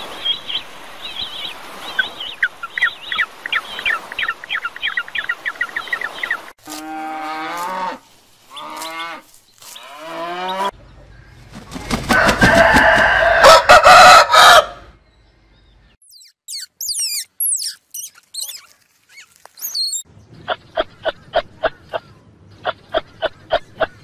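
A rooster crowing once, loud and drawn out for about four seconds, midway through a run of other animal calls: rapid repeated calls at the start, three short calls before the crow, and high chirps and quick pulsed calls after it.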